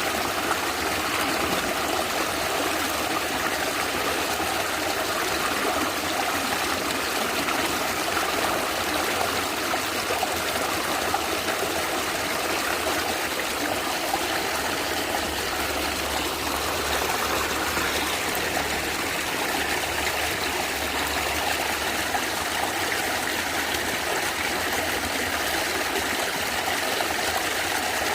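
A natural stream of water running and gurgling steadily over stones.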